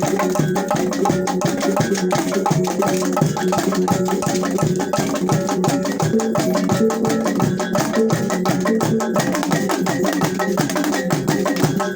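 T'boli traditional instrumental ensemble playing: quick, steady strikes on tuned percussion over a regular drum beat.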